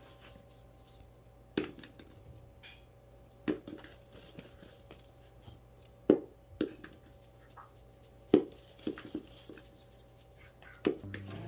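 A bouncy ball knocking against a hard surface about eight times at irregular intervals, each knock short and sharp.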